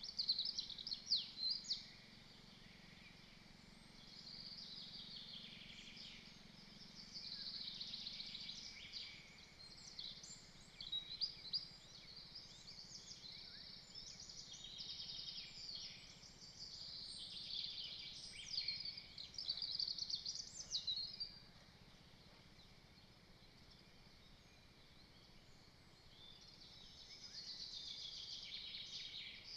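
Small songbirds singing in the forest around the nest, several high-pitched songs and trills overlapping in bursts, with a longer lull in the second half.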